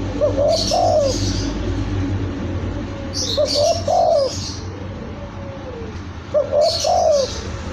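Young spotted dove (tekukur) cooing: three short coo phrases about three seconds apart, each a few quick notes ending in a longer one. High chirping comes at the same moments as each phrase.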